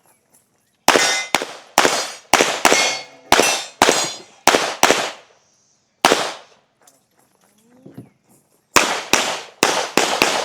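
Gunshots from a shooter running a practical-shooting competition stage. A rapid string of about nine shots starts about a second in, a single shot follows after a short pause, and another quick string begins near the end.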